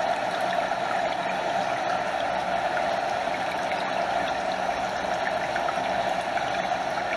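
A stream rushing steadily, with small splashes and lapping near at hand.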